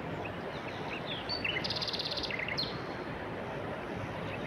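Birds chirping over a steady hiss of background noise, with a rapid buzzy trill about halfway through.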